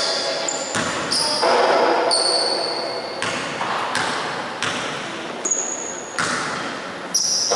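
Basketball bouncing on a gym floor, several irregular knocks ringing in the hall, with high sneaker squeaks from players moving on the court.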